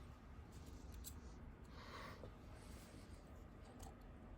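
Near silence: faint room tone with a low hum and a few faint light clicks.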